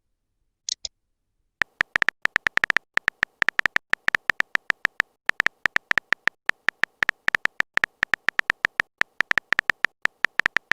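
A fast, uneven string of short electronic beeps, each a brief click-like tone near the same pitch, running on for about nine seconds after two quick high chirps at the start.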